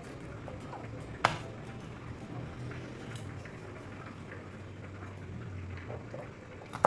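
Kitchen knife knocking sharply on a cutting board twice, once about a second in and once at the end, with a few faint ticks of knife work between, over a steady low hum.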